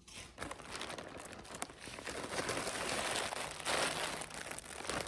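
Packaging crinkling and rustling as it is handled and opened, a continuous crackle that grows louder for a couple of seconds midway.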